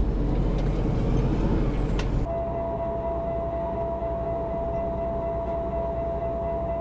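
Steady rumble of road and engine noise inside a moving truck's cab. About two seconds in, the sound changes and a thin, steady high whine joins it.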